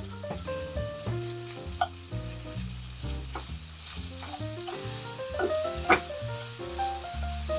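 Sliced onion, bacon and green chilies sizzling in hot fat with minced garlic in a frying pan as they are stirred with chopsticks. The sizzle grows louder a little past halfway, with a few light clicks. Background music plays throughout.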